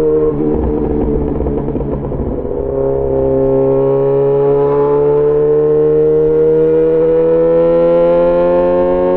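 Yamaha XJ6 S inline-four engine through an SC-Project aftermarket exhaust: running steadily, then easing off the throttle with a rougher, slightly quieter sound for about two and a half seconds, then pulling again with its pitch rising slowly as the bike accelerates.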